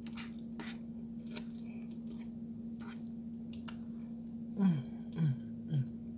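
A person chewing a forkful of spaghetti, with scattered small wet mouth clicks. Near the end come three short falling vocal hums, and a steady low hum sits underneath throughout.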